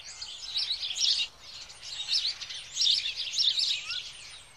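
Songbirds singing, a busy run of quick high chirps and trills with a brief lull about a second and a half in.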